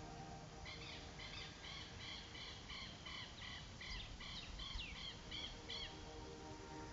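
A bird calling in a fast series of short repeated notes, about four a second, for about five seconds, over faint background music.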